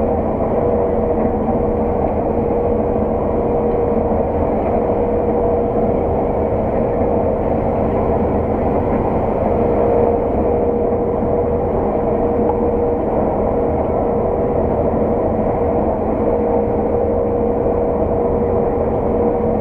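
Harvest machinery heard from inside the cab: a steady engine and drivetrain drone with a constant whine, unchanging throughout.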